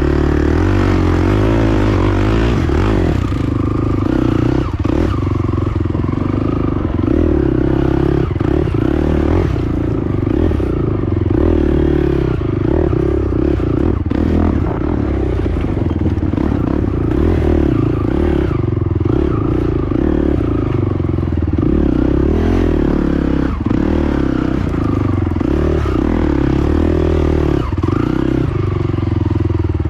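Honda TRX450 quad's single-cylinder engine running continuously as it is ridden over a rough trail, with frequent clatter and knocks from the machine on the rough ground.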